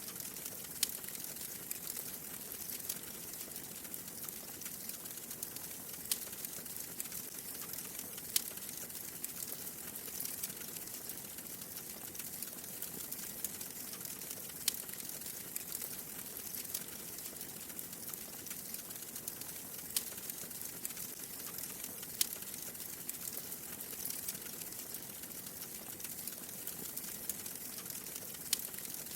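Wood fire crackling in a fireplace: a steady soft hiss with occasional sharp pops every few seconds.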